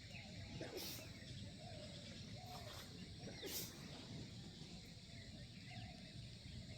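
Faint outdoor background: distant voices calling over a low steady rumble, with two brief hissing bursts, about a second in and about three and a half seconds in.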